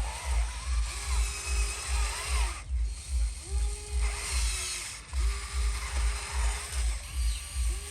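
Small electric motors and gearing of a radio-controlled construction machine whirring. The whine rises, holds and falls again every second or so. Underneath is background music with a steady bass beat about four times a second.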